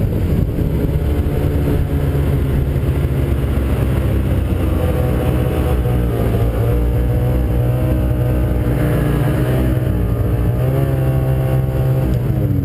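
Ski-Doo 600 two-stroke snowmobile engine running hard at speed, its pitch wavering with the throttle, over wind rumble on the microphone; the pitch drops near the end as it eases off.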